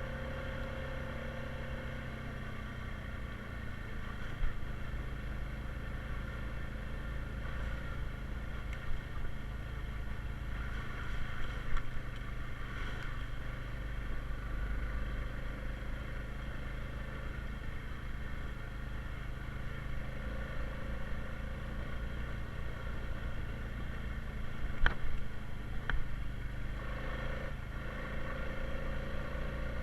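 Honda Rubicon 520 ATV engine running steadily under way, with a few short sharp knocks, two of them close together near the end.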